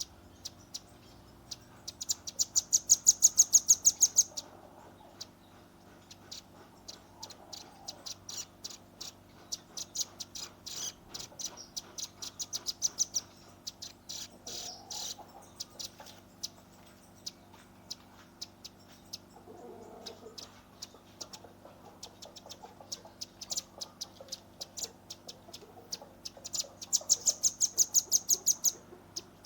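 Velvet-fronted nuthatch giving its rapid-fire 'shooting' call: trains of sharp, high chips. Two fast, loud runs of about two seconds each come near the start and near the end, with scattered chips between them. A faint steady hum runs underneath.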